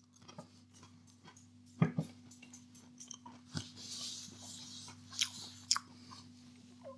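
A person chewing a mouthful of breaded cod fillet, with a little crunch from the breaded coating and a few soft clicks of the mouth.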